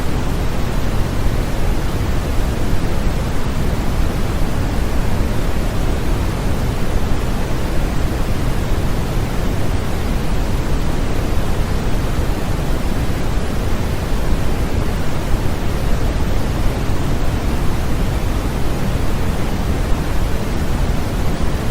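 Continuous sleep-aid white noise, steady and unchanging, with most of its weight in the low end, so it sounds deep rather than hissy.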